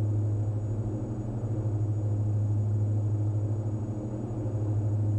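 Twin Austro AE300 turbodiesel engines of a Diamond DA42 NG in a climb, heard inside the cabin as a steady low drone that swells and dips slightly.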